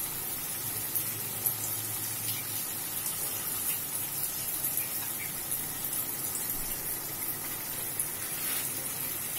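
Hilsa fish pieces cooking in spiced onion paste in a steel karahi: a steady sizzling hiss of the frying masala, with a few light clicks.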